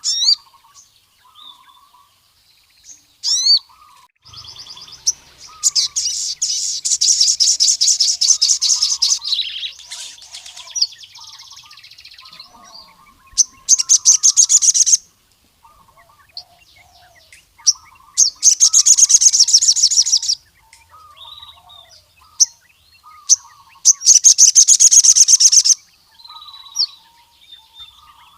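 Male crimson sunbird (sogon) singing hard: four loud bursts of very rapid, high trilling, each lasting one and a half to four seconds. Short, sharp rising chirps come between them, over softer, lower twittering.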